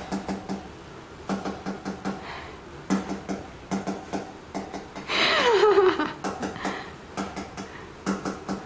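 A parrot's falling, pitched call about five seconds in, amid a run of sharp irregular clicks and knocks.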